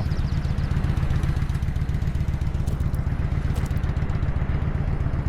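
Kawasaki Vulcan 900 Classic's V-twin engine running steadily, a low, rapid, even pulse.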